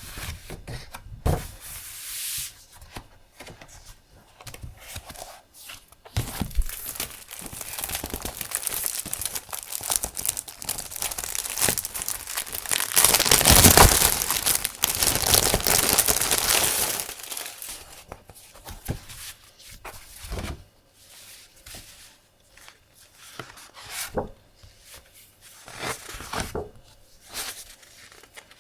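Paper and plastic packaging being handled, rustling and crinkling. A long stretch of continuous rustling builds in the middle and is loudest about halfway through, with scattered light taps and clicks before and after it.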